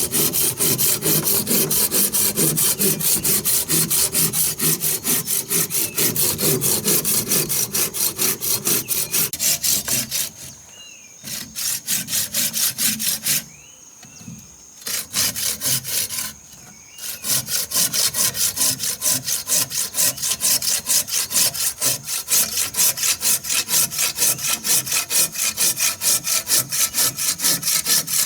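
Hand saw cutting wood in rapid, regular back-and-forth strokes, stopping three times for a moment near the middle.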